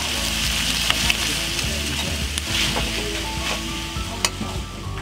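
Oyster mushrooms sizzling in a frying pan while a steel spoon stirs them, with a few sharp clicks of the spoon against the pan.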